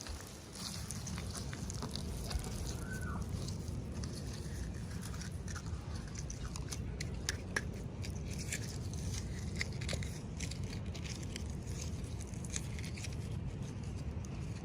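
Crackling, crinkling and small scattered clicks of toy packaging being handled and opened by hand, over a low rumble of handling noise.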